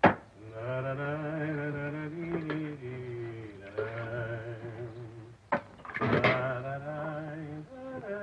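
A man humming a slow tune in long held notes. There is a sharp knock at the very start and two clunks about five and a half and six seconds in.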